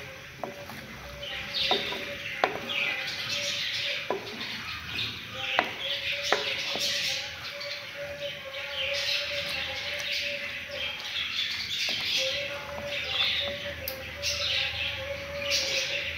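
Black chickpeas with onion, garlic, tomato and chillies sizzling as they fry in ghee in a clay pot, stirred with a wooden spoon. The spoon knocks against the pot now and then.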